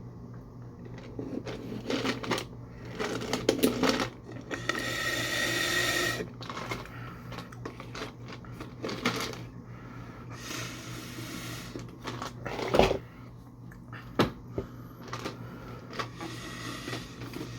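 Close-miked eating and handling sounds: small clicks, taps and rustles of food, packaging and utensils, with a longer rustling stretch about a quarter of the way in and a few sharp taps later. A steady low hum runs underneath.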